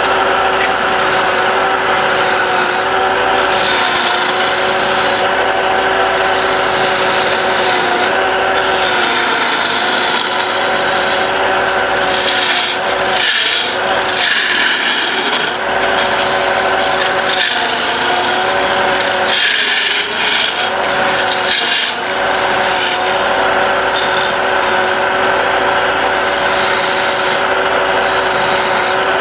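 Wood lathe running with a steady motor whine while a turning tool scrapes and cuts the spinning wood. The motor's pitch dips briefly a few times around the middle.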